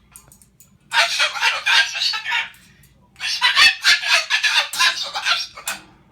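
Moluccan cockatoo screeching angrily: two long, harsh screeches, the second longer than the first.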